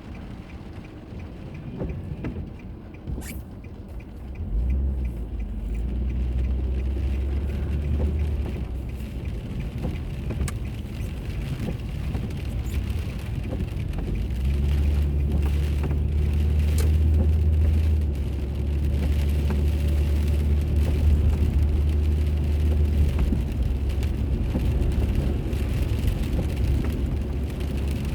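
Car driving, heard from inside through a dashcam: a steady low engine and road rumble that grows louder about four and a half seconds in and again around fourteen seconds.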